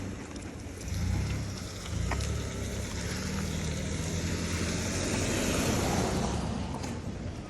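A motor vehicle driving past on the street: a low engine hum and tyre hiss that build up, peak about six seconds in, then fade away.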